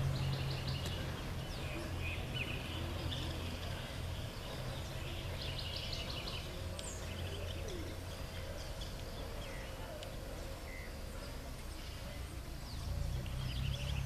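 Small birds chirping and twittering in short calls over a steady low rumble.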